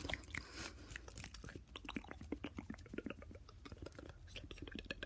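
Fast, aggressive wet mouth sounds: a rapid, irregular run of tongue clicks and lip smacks.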